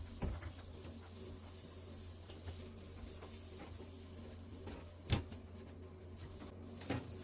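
Low steady appliance hum with a few soft clicks and knocks, the loudest about five seconds in.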